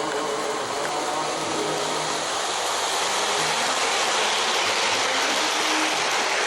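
O-gauge model train running on its track: a steady whirring noise of motor and wheels.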